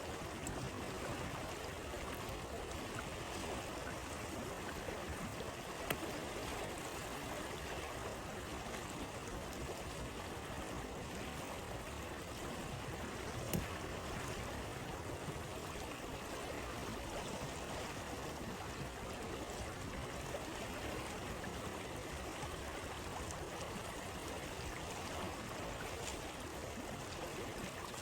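Steady rush of a flowing stream, with a campfire crackling: two sharp pops, about six seconds in and again near the middle.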